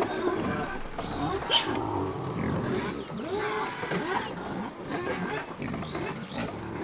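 Animal calls: many short calls that rise and fall in pitch, with a run of short, high chirps near the end.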